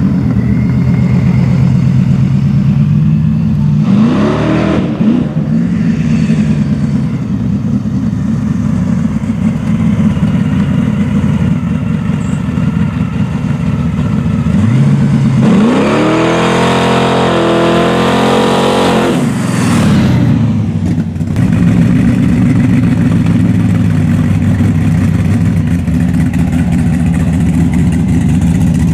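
Truck engine running steadily, blipped once about four seconds in, then revved up hard for about four seconds around the middle before dropping back, with a short blip just after.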